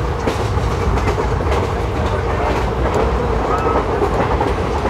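ICF passenger coach running at speed, its wheels making a steady rumble over the rails with sharp, irregular clicks as they cross the rail joints.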